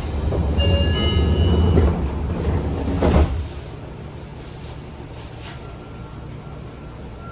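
Seibu 20000 series train's sliding doors closing at a station: a low rumble with a short chime-like tone sequence, ending in a sharp thud as the doors shut about three seconds in, then the standing train's steady hum with a faint thin whine. The title asks whether the doors have become 'guillotine doors', slamming shut hard.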